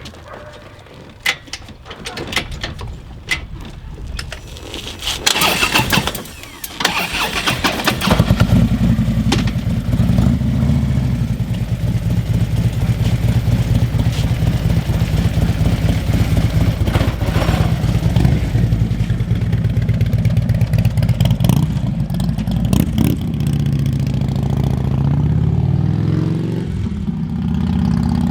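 Harley-Davidson Electra Glide's V-twin engine starting up about eight seconds in and then running steadily, after a few clicks at the start. Its pitch shifts a few times near the end.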